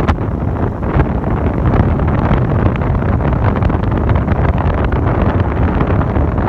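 Wind buffeting the microphone: a loud, uneven rumble.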